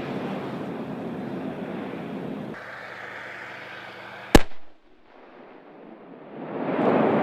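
Aircraft engine drone fading away, then one sharp, loud bang of live fire about four seconds in. A rushing noise rises near the end.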